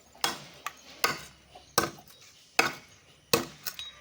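Heavy chopping strikes into wood: five hard blows roughly evenly spaced, a little under a second apart, with two lighter knocks in between.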